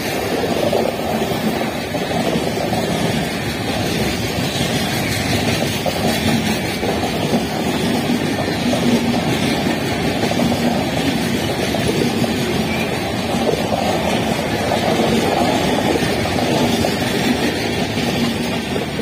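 LHB passenger coaches of an Indian Railways express rolling past close by at speed: a loud, steady rumble of steel wheels on the rails.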